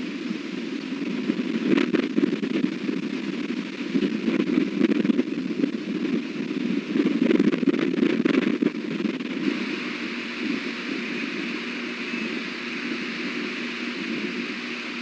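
Strong wind buffeting the nest-cam microphone: a gusty, low rumbling noise that rises and falls, with scattered crackling clicks about two seconds in and again about eight seconds in.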